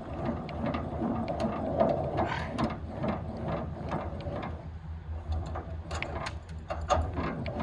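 Hand-crank trailer tongue jack being cranked: a run of mechanical clicks from the jack's gears as the handle turns.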